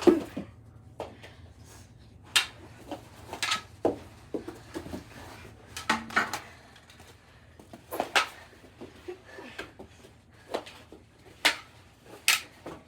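Knee hockey play: plastic mini hockey sticks clacking against each other and hitting the ball in irregular sharp knocks, about one every second, the loudest right at the start.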